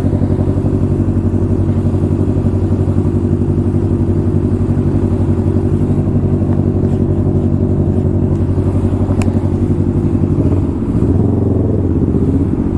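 Honda CBR600RR's inline-four engine running steadily at cruising speed, with a brief dip and change in pitch about ten seconds in.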